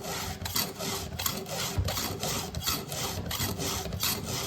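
Round chainsaw file in an Oregon file guide rasping across the cutters of an Oregon saw chain: repeated forward filing strokes, about two to three a second.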